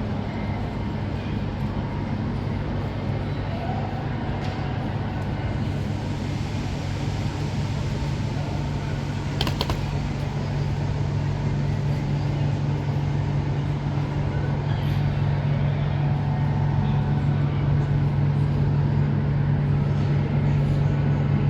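Railway station ambience dominated by a steady low engine hum that grows slightly louder toward the end, with one sharp click about halfway through.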